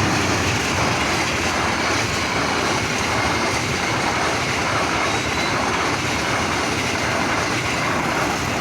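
A train passing close by: a loud, steady rush of wheels on rails.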